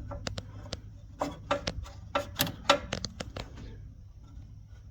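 Irregular small clicks and knocks, many in the first three and a half seconds and then few, as a rusty cable connection on a Husqvarna lawn tractor is wiggled by hand.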